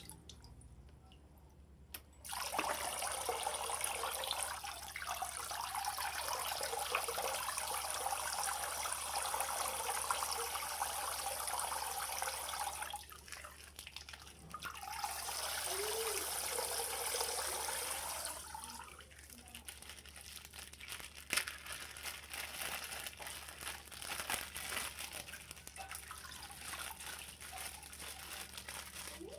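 Water running out of a popped plastic water bag in a steady stream, stopping briefly about halfway through and starting again. After that come scattered drips and small plastic crinkles.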